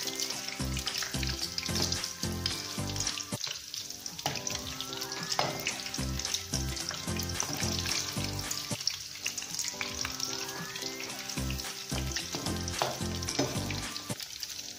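Breadcrumbed meatballs deep-frying in a pan of hot oil, a steady sizzle, while a metal spoon turns them. Background music with a regular low beat plays under it.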